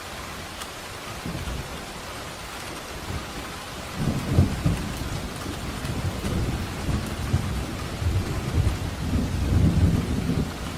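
Steady rain falling, with a long low rumble of thunder that starts about four seconds in and rolls on until near the end, swelling at its start and again near the end.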